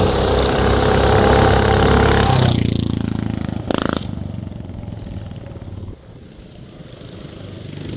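Small mini bike engines running hard close by, then fading away quickly about two and a half seconds in as the bikes race off down the road. A short sharp knock a little later.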